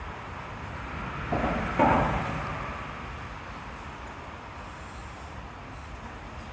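Steady rushing of a flooded creek's fast current, with a brief louder swell about a second and a half in that fades away.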